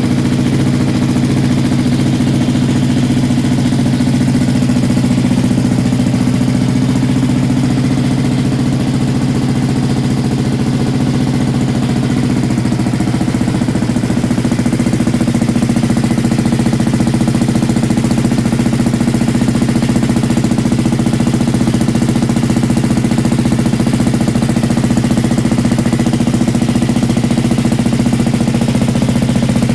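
1996 KTM Duke 620 LC4's single-cylinder four-stroke engine idling steadily as it warms up after a cold start.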